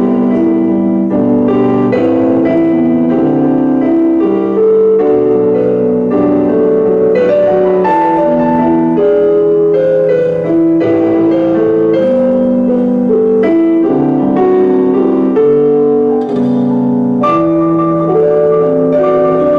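Electronic keyboard played with a piano sound: a steady run of held chords changing about once a second, with a higher line of notes above them, and no singing.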